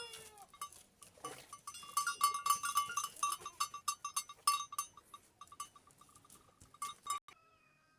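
Goats in a pen: one bleats briefly at the start, then a small bell clinks rapidly and steadily, stopping abruptly near the end.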